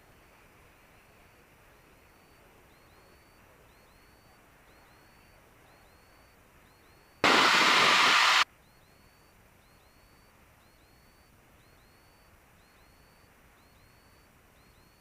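Faint steady hiss of headset/intercom audio, broken about seven seconds in by a sudden loud burst of radio static that lasts just over a second and cuts off abruptly.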